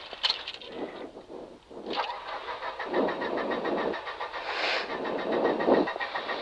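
Stalled rally car's engine cranked on the starter in several short bursts without catching.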